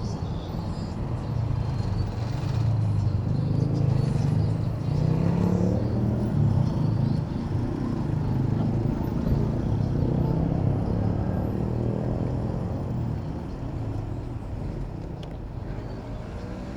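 City road traffic heard from a moving bicycle: motor vehicle engines running close by as a steady low rumble, louder in the middle and easing near the end.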